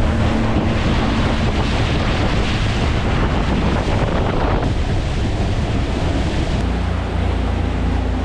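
Boat under way: a Honda outboard motor running steadily under heavy wind buffeting on the microphone and rushing water. The sound shifts abruptly twice, about halfway through and again near the end.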